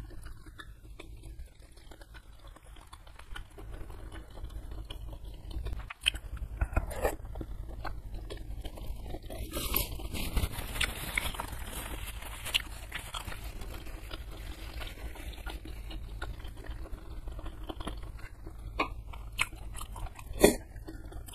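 Close-miked chewing of gelatinous beef skin and tendon (kikil) in spicy curry, with wet mouth sounds, soft crunches and small clicks. There is a sharp click near the end.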